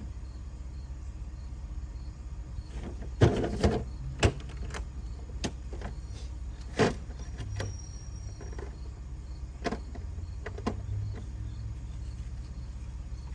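Scattered clicks and clunks of tools and parts being handled, loudest in a cluster about three to four seconds in and once near seven seconds, over a steady low hum.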